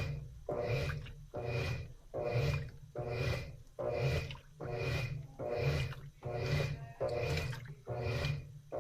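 Washing machine agitating during a wash cycle: the drum or agitator swings back and forth about twice a second, each stroke a motor hum with a swish of water and laundry.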